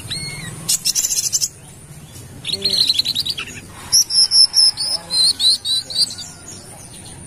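Brown-throated sunbird (kolibri kelapa) singing in bursts of high, rapid chirps and trills, with sharp whistled notes in the second half.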